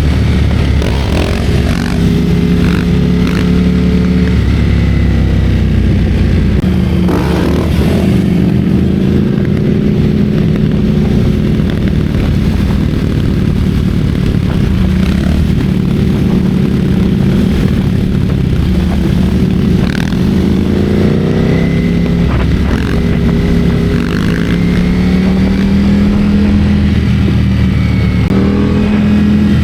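Ducati Streetfighter V4S's V4 engine running under way, its pitch rising and falling several times with throttle and gear changes, over a steady low wind rumble on the microphone.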